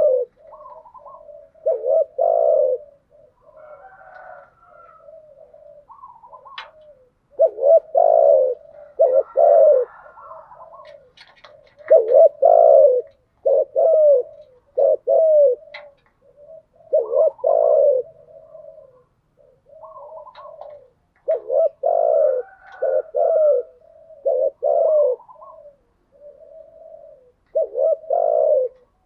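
Spotted doves cooing: low, repeated cooing phrases of a few notes each, broken by short pauses, with softer higher calls between them.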